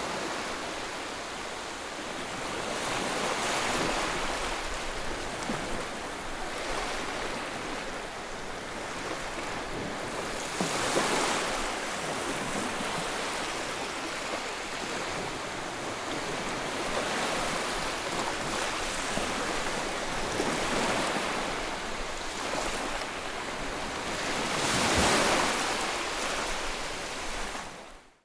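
Ocean surf: waves washing in, swelling and easing every few seconds. The sound cuts out abruptly at the very end.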